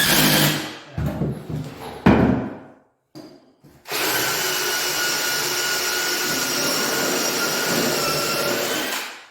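Two sharp knocks, then a power tool motor runs steadily for about five seconds with a constant whine before cutting off.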